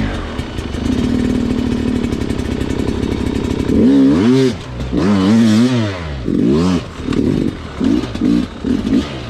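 Two-stroke Sherco dirt bike engine running low and steady, then revving up and down in sharp throttle bursts from about four seconds in, with several quick short blips near the end.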